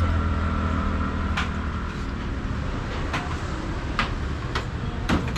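Motor vehicle running on the road, a steady low engine hum that eases off in the first second, with a few sharp clicks scattered through.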